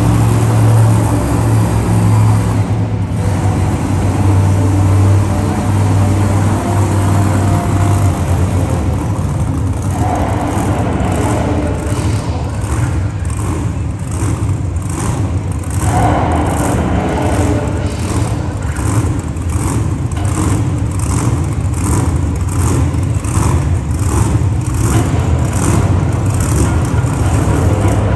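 Monster truck engine running loud and steady in an arena. From about ten seconds in, a regular beat of sharp pulses, roughly one to one and a half a second, joins the engine.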